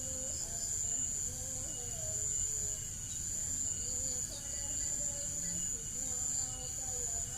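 Steady high-pitched chirring of insects, with faint wavering tones lower down.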